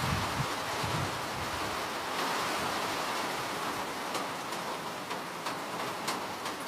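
Steady rain hiss with scattered individual drops ticking sharply. A low rumble fades out about a second in.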